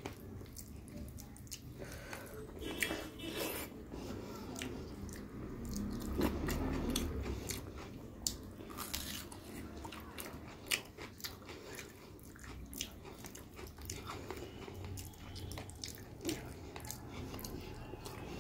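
Eating sounds: chewing with many short wet mouth clicks and smacks, and the squish of rice and curry being mixed by hand on a plate.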